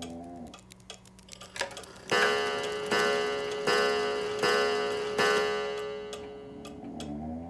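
Pendulum wall clock ticking, then striking five times, about 0.8 s apart, each chime ringing on and fading.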